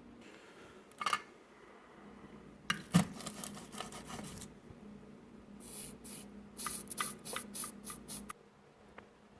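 Small handling noises of soldering work on a AA battery: a click about a second in, a sharp knock and some rattling near three seconds, then a run of short scratchy, hissing scrapes. A low steady hum runs underneath and stops shortly before the end.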